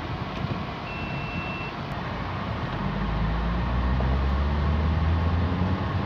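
Honda Accord's engine and road noise heard inside the cabin, the engine note growing louder and rising in pitch from about three seconds in as the car accelerates in Drive. A short high beep sounds about a second in.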